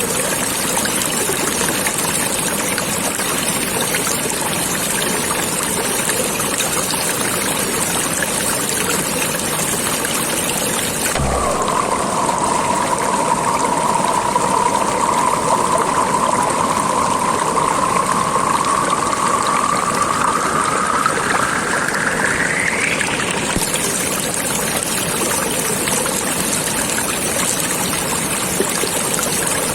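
A stream of running water flowing and trickling steadily. About a third of the way in, a steady whine-like tone joins it for some twelve seconds, rising slowly in pitch toward its end before it stops.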